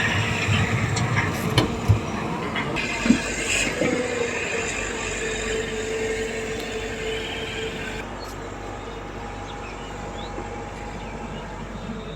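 Excavator's diesel engine and hydraulics running. There are a few sharp knocks in the first three seconds and a steady whine from about four to eight seconds in, and the noise eases off gradually.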